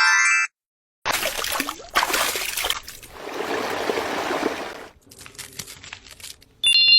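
Liquid trickling and pouring in uneven gushes, then a few light clicks. A short rising chime fades out just after the start, and a bright bell-like ding sounds near the end.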